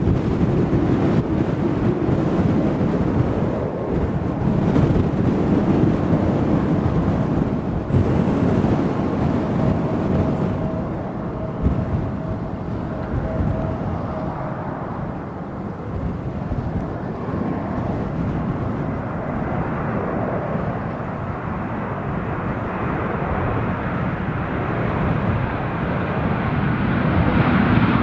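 Jet airliner engines rumbling at a distance under gusty wind buffeting the microphone, the engine noise growing louder and brighter near the end.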